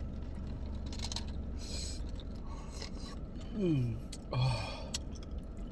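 A person breathing hard in short hissing breaths through the mouth, with one brief falling whimper about three and a half seconds in, from the burn of very spicy hot chicken. There is faint rubbing and scraping, and a low room hum underneath.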